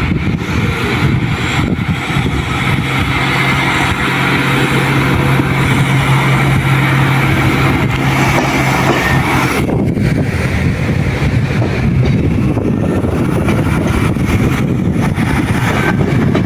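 RA2 diesel railbus running along the line: a steady noise of the train in motion with a constant low engine hum that fades out a little past halfway, while the rushing noise carries on.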